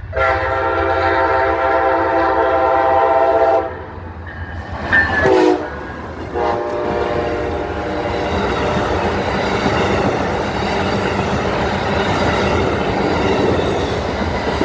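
Amtrak passenger train sounding its multi-tone air horn: a long blast, a short blast about a second later, then another blast. The train then passes close by with a steady rush of wheel and rail noise.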